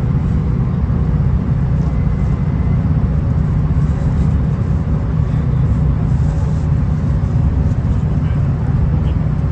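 Steady low rumble inside a V/Line VLocity diesel railcar running along the line: underfloor diesel engine and wheels on the rails, with no breaks or changes.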